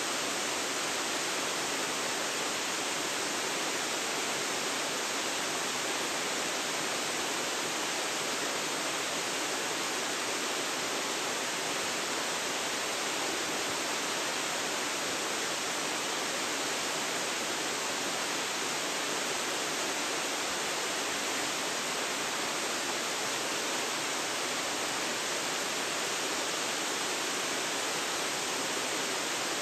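Waterfall: a steady, unbroken rush of falling water, picked up by a phone's built-in microphone.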